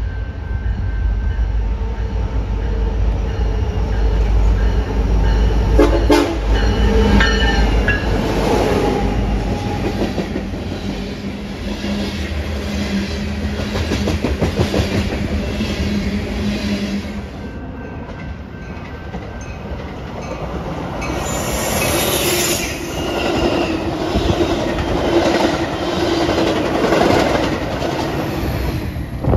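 A BNSF freight train passes close by: the lead diesel locomotives rumble past, growing louder over the first several seconds, then a long string of loaded hopper cars goes by with their wheels clicking over the rail joints. The sound dips about two-thirds of the way through. Then a Metra diesel commuter train rolls past on the same track.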